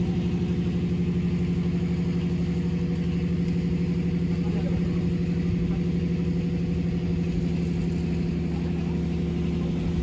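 An engine or motor running steadily at one pitch, with a fast, even pulse.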